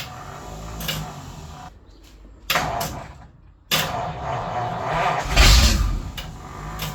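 1951 Ford F3's flathead V8 cranking over on the starter without catching: a cold start after months of sitting. A first short burst of cranking, a pause with a short click, then a longer, louder burst of cranking.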